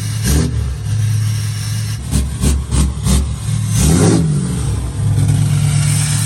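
Pickup truck engine running at high idle, blipped in several quick revs about two to three seconds in, then revved up and back down once around four seconds in.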